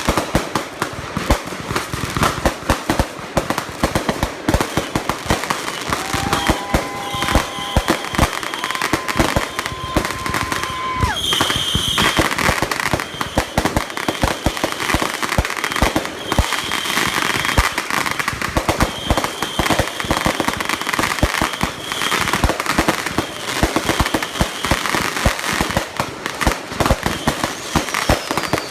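Consumer firework cakes firing in a dense, continuous barrage of bangs and crackling pops. Several long whistling tones sound over the barrage, lower ones around a quarter of the way in and a higher, shriller one through the middle.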